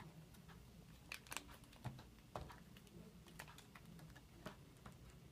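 Faint, irregular clicks and light handling noises of a small plastic Shopkins blind basket being worked open by hand.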